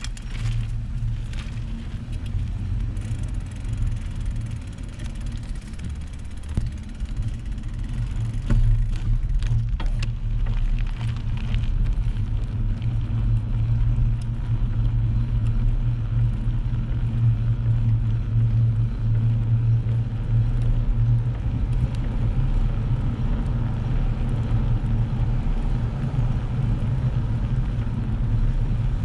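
Steady low rumble of riding along, the noise of the ride picked up by the camera, with a few clicks and rattles about eight to ten seconds in.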